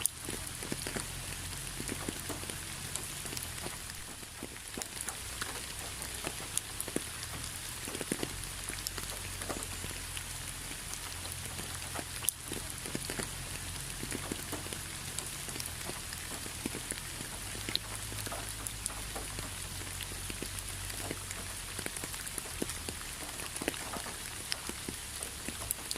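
Steady rain falling, with many separate drops ticking at uneven intervals over a continuous hiss.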